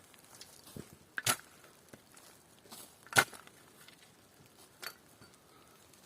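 Sharp tool blows on wood: two loud strikes about two seconds apart, with a few lighter knocks between and after.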